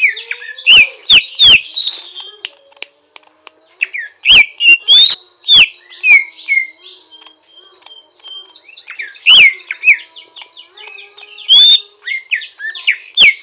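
Greater green leafbird giving rough twittering: bursts of sharp falling whistled notes mixed with harsher chatter, four bursts with short pauses between. This is a young bird's unfinished practice song, before it sings in full.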